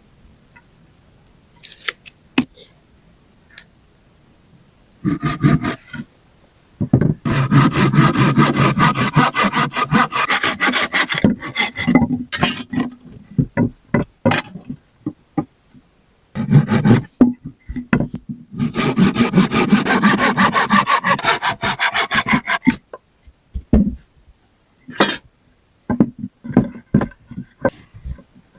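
Wood being sawn by hand in two long bouts of fast, even strokes, with scattered knocks and clicks of wood being handled between them.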